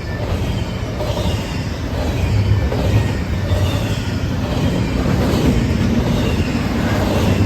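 A train's railroad cars rolling past on the track: a steady, loud rumble with faint high wheel squeals.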